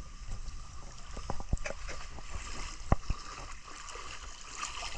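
Outdoor shoreline ambience: a steady rush of water and wind with a low rumble on the microphone, broken by a few sharp knocks, the loudest about three seconds in.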